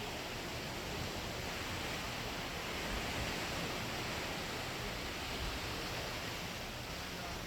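Steady rushing wind and sea noise at sea, with some low buffeting of wind on the microphone.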